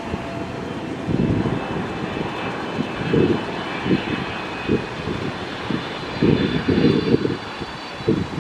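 Jet airliner engines running at the airport, heard as a faint, steady high whine, under uneven gusts of wind buffeting the microphone.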